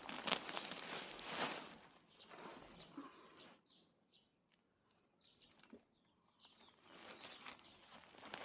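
Rustling and scraping of hands working through soil in a potato grow bag, loudest in the first two seconds and again near the end. In the quieter middle, small birds chirp briefly several times.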